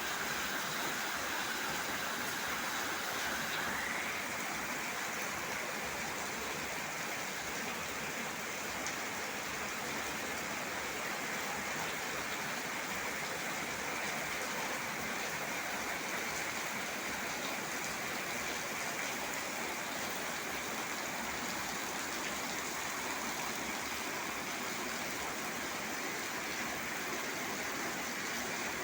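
Steady rainfall at night: an even, continuous hiss of rain.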